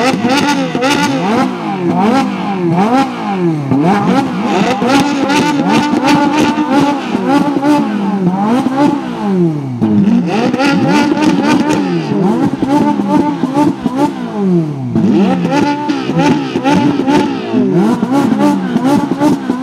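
Two Ferrari 458 Italias' V8 engines on aftermarket exhausts being revved hard again and again, the pitch climbing and dropping every second or two and sometimes held high, with sharp exhaust cracks between revs.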